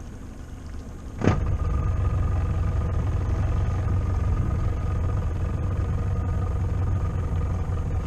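A boat's outboard motor comes up abruptly about a second in, then runs steadily with a loud, low rumble as the boat moves off.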